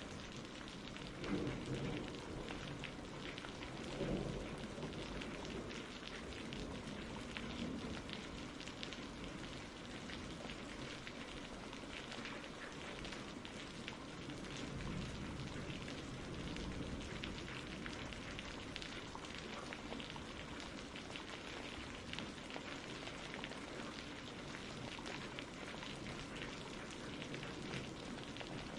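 Steady rain falling on a surface, a dense patter of drops. There are two brief low swells in the first few seconds.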